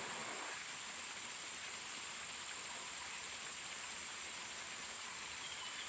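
Steady, high-pitched drone of insects over the even rush of flowing stream water.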